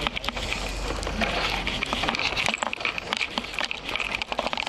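Bicycle tyres crunching through fresh snow, with a dense, irregular run of crackles over a steady hiss.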